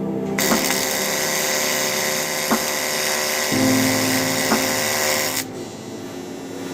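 TIG welding arc on aluminium, a steady buzzing hiss that cuts out about five and a half seconds in, leaving a lower hum.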